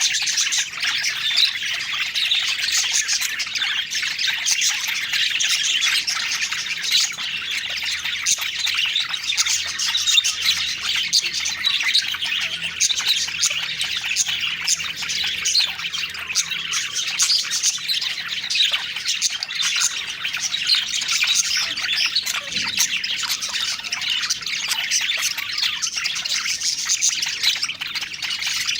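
A flock of budgerigars chattering and warbling, with many quick chirps and squawks overlapping without a break.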